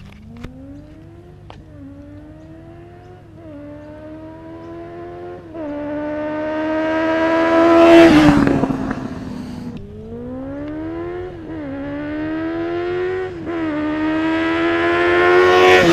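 A 2013 Honda CB400 Super Four's 399cc inline-four, through a baffle-less IXIL slip-on exhaust, accelerating past twice. Each time the revs climb and drop back with quick upshifts about every two seconds, growing louder until the bike goes by with a falling pitch, once about halfway through and again at the very end.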